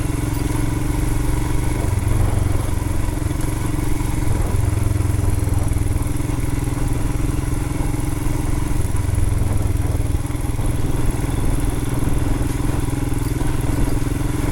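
Royal Enfield Himalayan's 411 cc single-cylinder engine running as the motorcycle is ridden along the trail, its low note swelling and easing several times with the throttle.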